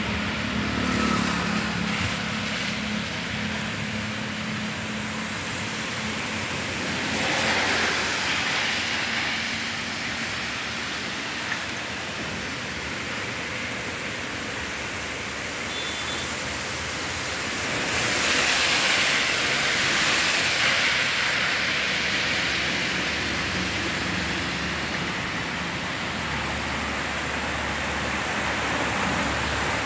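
Steady hiss of heavy rain and running water on a flooded street, with cars driving through the standing water. The hiss swells about seven seconds in and again for a few seconds around the twenty-second mark.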